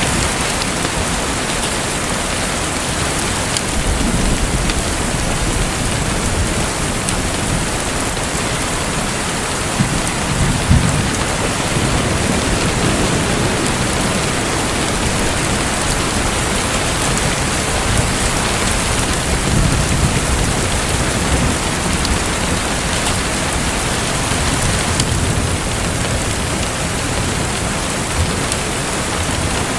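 Steady rushing, pattering water noise, like heavy rain or aquarium water, with a few low rumbling swells.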